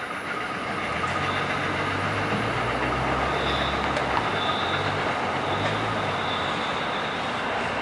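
New Jersey Transit commuter train of Comet coaches, hauled by an ALP-46A electric locomotive, pulling away with a steady rumble of running gear. A low hum joins in about a second in.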